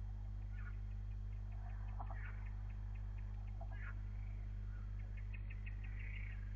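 Steady low electrical mains hum, the loudest sound, with faint bird-like chirps and trills over it, including a quick run of short pulses near the end.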